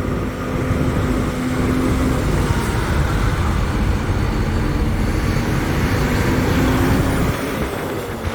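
Semi-truck driving at road speed, heard from inside the cab: a steady engine hum over low road and wind rumble, easing off about seven seconds in.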